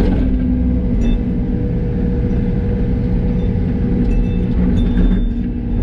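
Yanmar ViO80 mini excavator's diesel engine and hydraulics running steadily under digging load, a deep rumble with a steady whine, with a few light clinks about a second in and again near the end.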